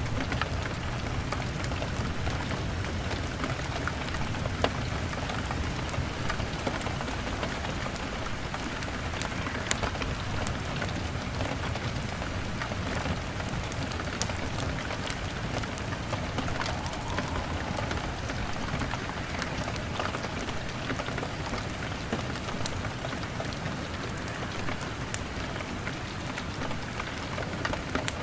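Steady rain on a window pane, an even hiss, with scattered sharp pops and clicks from a crackling fire mixed in.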